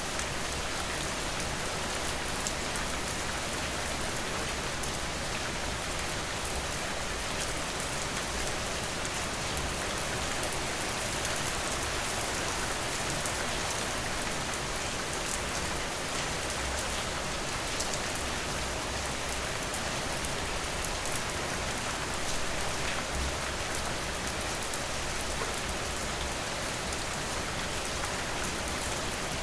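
Steady rain falling on a surface: an even, unbroken hiss of drops that stays the same throughout.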